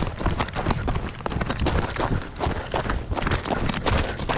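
Running footsteps: quick, even footfalls with a low rumble underneath.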